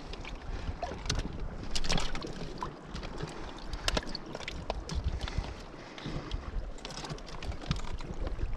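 Wind rumbling on the microphone, with scattered sharp clicks and knocks, the loudest about two and four seconds in.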